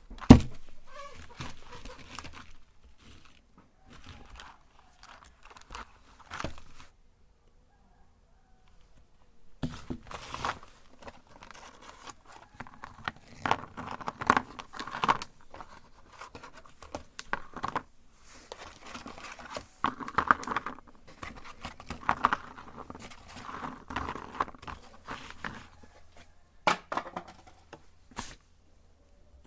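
Crunchy cookies being crushed in a meat grinder, with irregular crackling and crunching. A sharp knock and a few scattered rustles and clicks come first. The steady crunching starts about ten seconds in and runs almost to the end.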